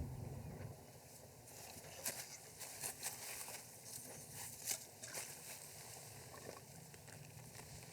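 Faint scattered clicks and light knocks, a few sharper ones about two, three and nearly five seconds in; no engine is running.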